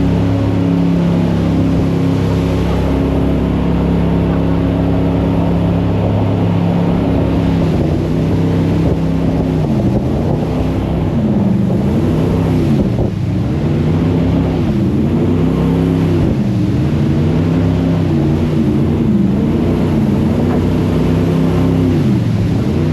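Jet boat engine running loud and steady, then from about ten seconds in its revs rise and fall repeatedly, every second or two.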